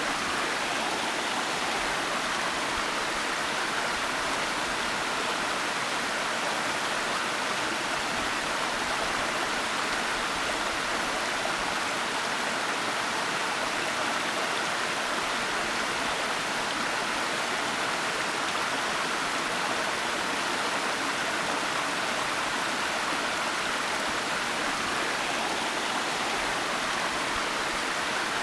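Waterfall: a steady, unbroken rush of falling water with no changes or separate splashes.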